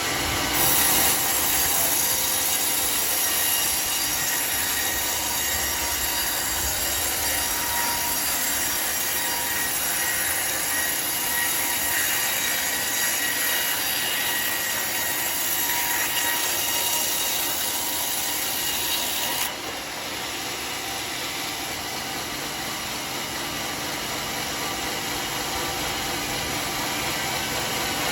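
Homemade sawmill's saw blade cutting through teak: a steady, loud, high-pitched squealing whine over a hiss. About two-thirds through, the high whine drops away suddenly and the machine runs on more quietly.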